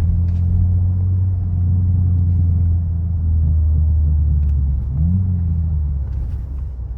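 BMW G80 M3's twin-turbo inline-six engine running at a steady low drone while the car is driven. The engine note rises briefly about five seconds in, then eases off.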